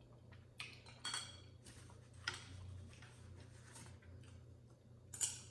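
Someone eating noodles close to the microphone: a handful of short, separate wet clicks and smacks of chewing and slurping, spread out over a few seconds.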